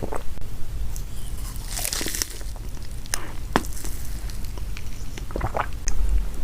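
Snacks being handled and crunched: irregular crinkles, crunches and a few sharp clicks over a steady low rumble.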